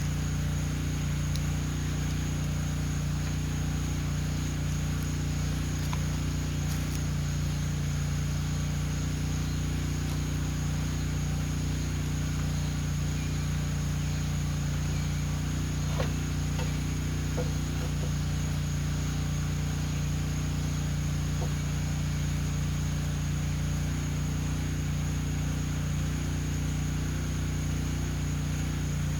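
A steady low machine hum with a constant high whine, unchanging in level, and one faint click about sixteen seconds in.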